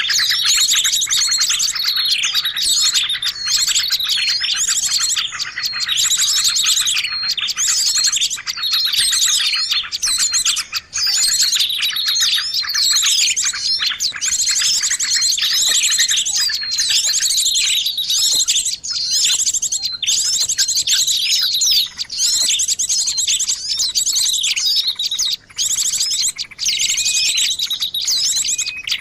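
Busy chorus of small songbirds chirping and twittering, many rapid trills and sweeping high notes overlapping with hardly a pause. It is a lure track, played to draw wild birds in for trapping.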